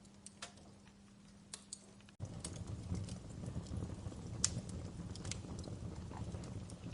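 Wood fire crackling with irregular sharp pops. About two seconds in it suddenly gets louder, with a low rumble of flames under the crackles.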